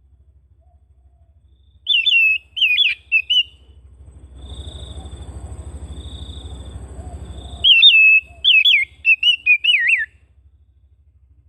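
Oriental magpie-robin (kacer) singing: two runs of rapid whistled, warbling notes, the second longer. Between them comes a soft rushing noise with faint steady high tones, over a low hum.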